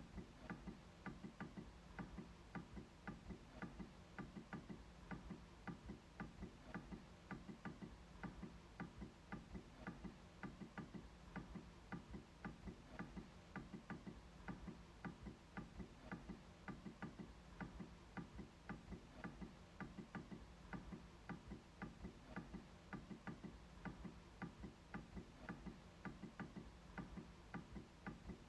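MacBook trackpad being clicked over and over: faint, short clicks at several a second in a steady, even run.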